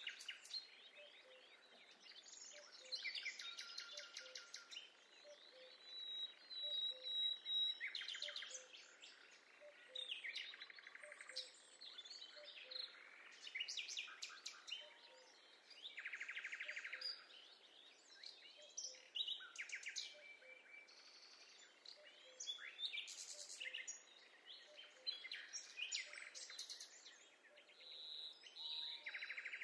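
Songbirds singing and calling: a busy mix of chirps, whistles and rapid trills, overlapping and coming and going.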